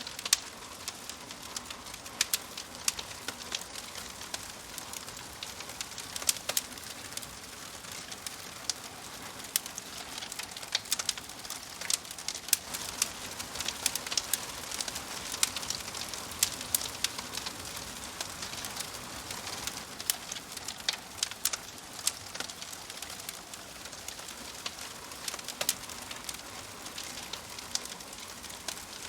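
Wood fire burning in a fireplace: logs crackling and popping with many irregular sharp snaps over a steady hiss.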